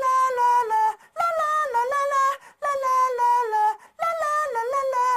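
A high voice singing the same short wordless phrase four times, each about a second long with brief pauses between, the melody gliding down and up.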